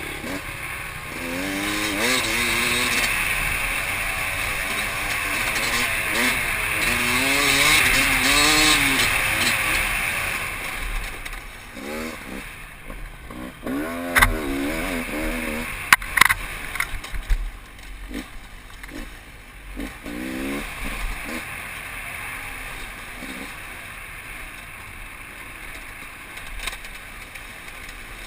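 Off-road enduro motorcycle engine revving up and down over and over as the rider works the throttle, its pitch rising and falling. A couple of sharp knocks come about halfway through, and the engine is quieter and steadier in the last third.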